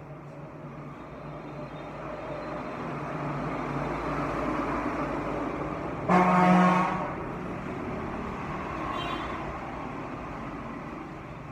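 Street traffic running steadily, with a vehicle horn honking once loudly for just under a second about six seconds in and a fainter short honk about three seconds later.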